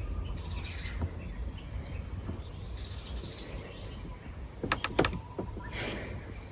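Small birds chirping briefly, twice, over a steady low outdoor rumble, with a quick run of sharp clicks about five seconds in.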